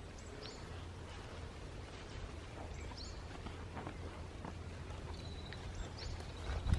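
Small birds calling in the forest: several short, high, downward-sweeping chirps and a thin held note, over a steady low rumble, with faint footsteps on the trail and a louder thump near the end.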